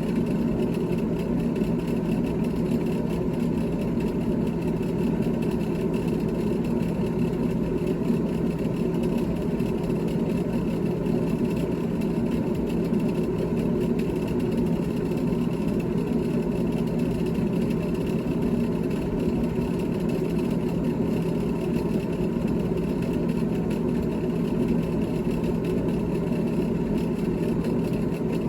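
GE GTH18XCTZRBB refrigerator running with a steady, unchanging mechanical hum.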